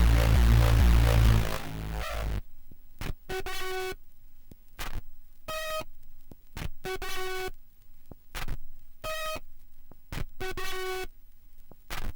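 Techno track: a full, bass-heavy beat cuts out about two seconds in. It leaves sparse, repeated buzzy synthesizer tones with short clicks between them, roughly every second and a half.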